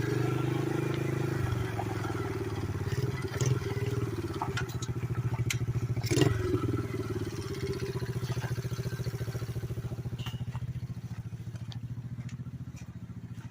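Pit bike engine running on the home-built three-wheeler, steady and slowly growing fainter towards the end, with a sharp clatter about six seconds in. Its note does not sound the best, and the owner keeps a spare motor in case it fails.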